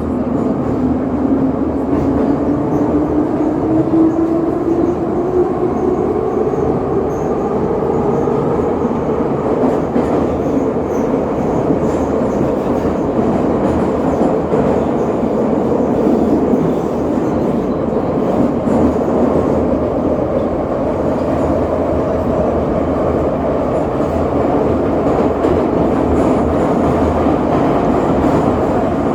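Metro train running between stations, heard from inside the car: the traction motors' whine rises in pitch over the first ten seconds or so as the train accelerates, over a steady rumble of the wheels on the rails.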